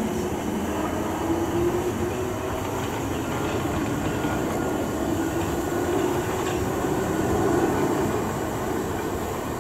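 Class 455 electric multiple unit pulling away along the platform, with steady rumble and wheel noise on the rails and a low motor whine that rises slowly in pitch as it gathers speed.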